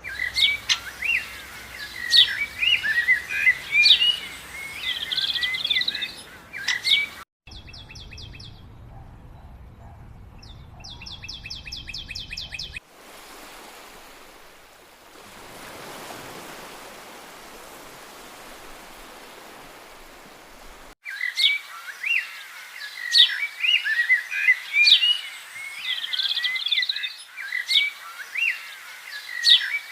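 Many songbirds chirping and singing together in a dense chorus. A third of the way in it cuts abruptly to fast, high, buzzing trills repeated in runs over a low hum, then to a steady rushing noise, before the bird chorus cuts back in for the last third.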